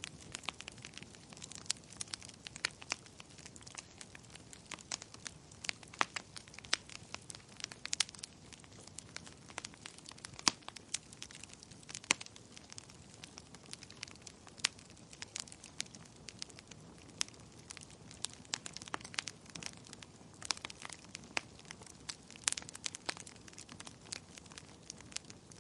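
Wood fire crackling and popping: irregular sharp snaps over a low steady hiss of the flames.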